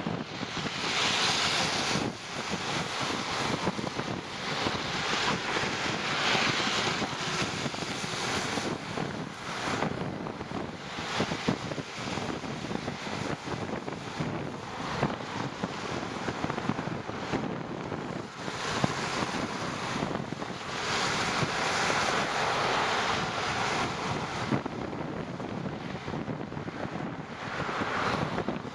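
Wind rushing over the microphone of a moving rider, a steady noise that swells louder every few seconds.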